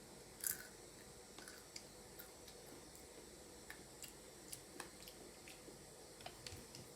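A Takis rolled tortilla chip bitten about half a second in, followed by faint scattered clicks of chewing at low level.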